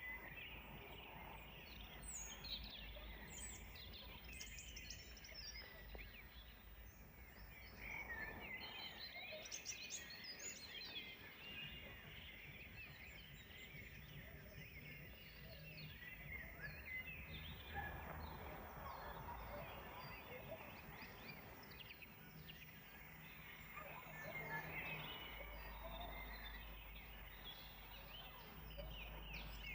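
Faint birdsong: several birds chirping and whistling in quick, overlapping phrases over a low, steady background noise.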